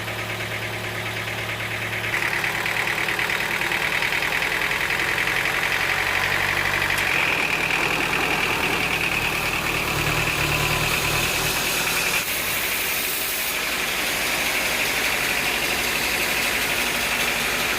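Sawmill machinery running steadily: an engine hum with a high whine that steps up in pitch a couple of times.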